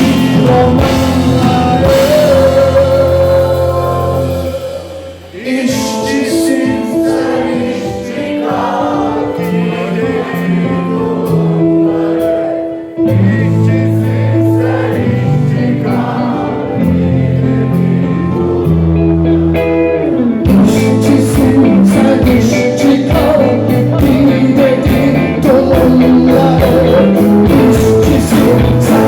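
Live rock band playing with singing. About five seconds in, the band thins out to a quieter passage of held sung notes, and the full band comes back in around twenty seconds in.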